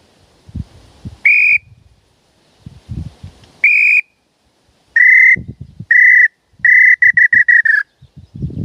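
A handheld bird-call whistle (pio) being blown. It gives two held whistled notes, then two shorter ones, then a quick run of about seven notes near the end, all at a steady high pitch. Soft handling knocks come between the notes.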